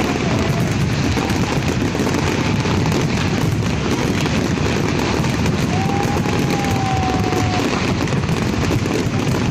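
Fireworks display: a dense, continuous barrage of rapid crackling and banging explosions. A drawn-out high tone sounds over it a little past the middle.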